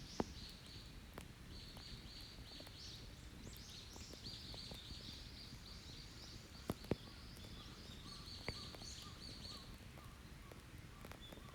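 Open wood campfire crackling with a few sharp pops, one right at the start, two in quick succession just past halfway and another soon after, over continuous birdsong in the trees.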